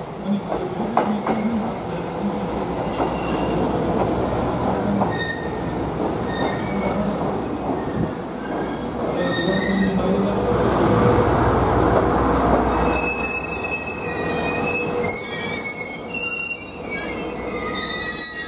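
Diesel railcar rolling slowly into a station, its wheels rumbling over the rails and points, with high-pitched wheel squeal on the curves that grows louder and more frequent near the end as it pulls up to the platform.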